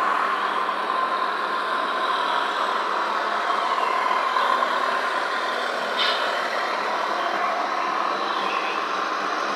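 Radio-controlled model trucks running: a steady whine of small motors and gearing that wavers a little in pitch, with one sharp click about six seconds in.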